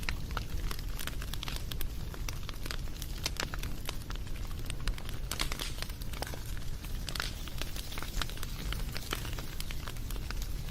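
Wood fire crackling: many irregular sharp snaps and pops over a steady low rumble.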